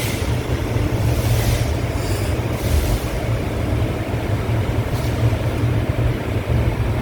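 Train running: a steady, heavy low rumble, with a few short hisses in the first three seconds and a single click about five seconds in.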